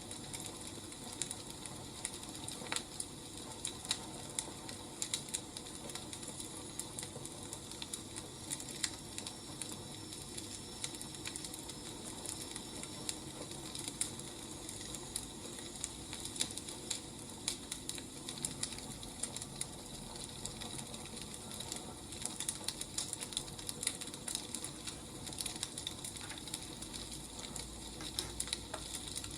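Burning firewood crackling, with frequent irregular sharp pops and snaps over a steady hiss.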